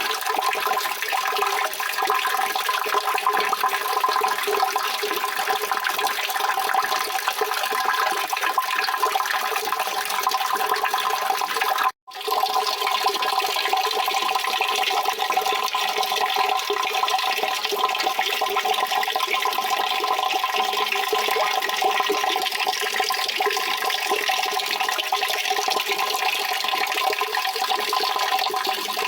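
Steady rushing water, an even, dense splashing noise. It cuts out for a split second about twelve seconds in and then resumes.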